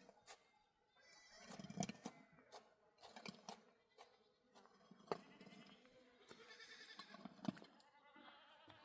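Faint goat bleating, a drawn-out wavering call about five to eight seconds in, among scattered light clicks and knocks.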